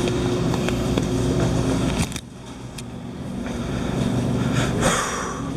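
Vehicle engine idling with a steady low hum. About two seconds in the sound drops off suddenly and then slowly builds back up.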